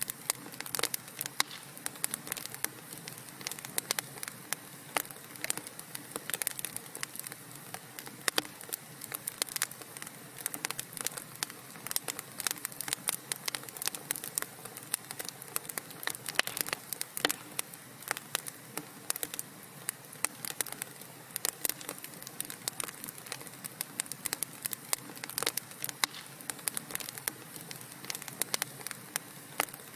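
Wood fire crackling: many quick, irregular pops and snaps over a soft steady hiss of burning logs.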